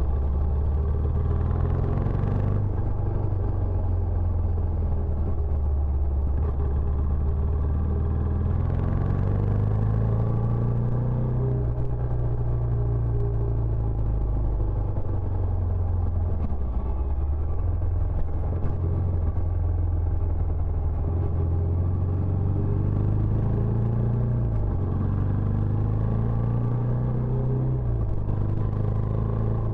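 Benelli Imperiale 400's single-cylinder engine running through its stock exhaust, a steady low note whose pitch rises and falls several times as the engine speed changes.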